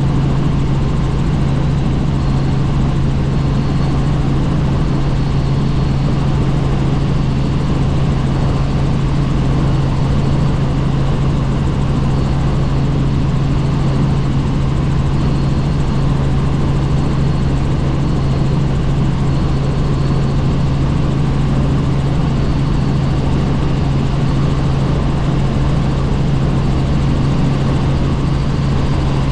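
Helicopter in flight, heard from inside the cabin: a loud, steady drone of rotors and engine with a strong low hum, unchanging throughout, and a faint high whine that comes and goes.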